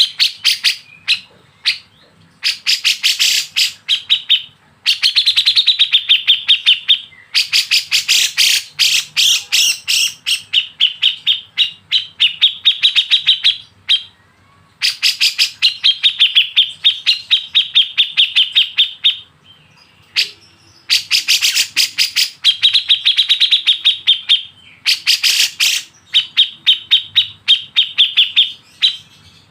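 A bird calling in loud, rapid runs of sharp, repeated chirping notes, each run lasting a second or two with short breaks between runs, from a birdsong training recording.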